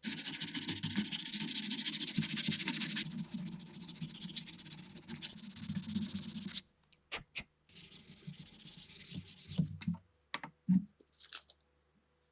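Sanding on a part of an old Mauser K98 rifle: rapid abrasive rubbing strokes in two spells, the first longer and stronger, with a few sharp clicks in between and a knock near the end.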